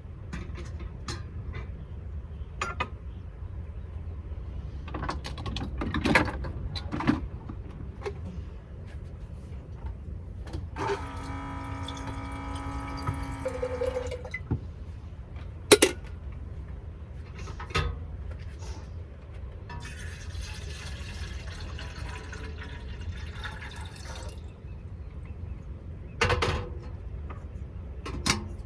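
Scattered knocks and clatters of things being handled, a steady pitched hum for about three seconds midway, and then several seconds of running or pouring water.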